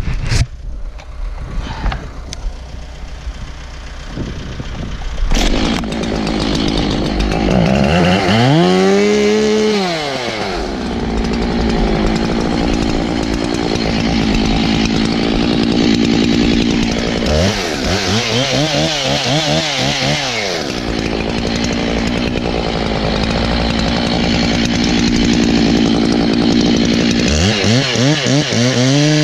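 Chainsaw running hard in a cut, its engine pitch sagging and recovering three times as the chain bites into the wood. A sharp knock comes about five seconds in, after which the saw runs louder.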